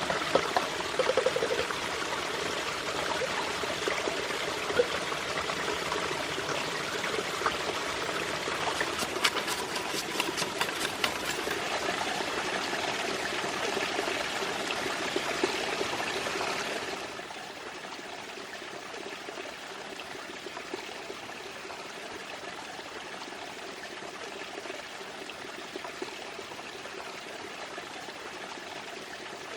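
Water running steadily, like a small stream or pouring water. About seventeen seconds in it drops suddenly to a quieter, even flow.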